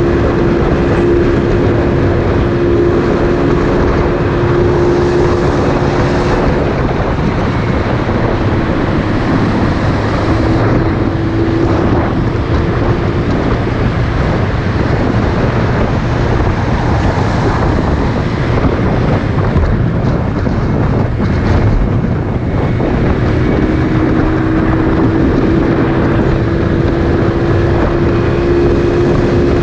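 Motorcycle engine running at steady speed while riding, with loud wind rushing over the microphone. A steady engine tone fades out partway through and comes back near the end.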